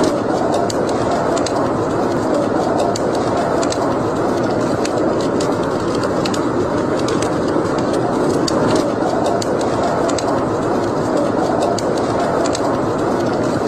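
Wood fire burning in a fireplace: a steady rushing noise with frequent small, sharp crackles at irregular intervals.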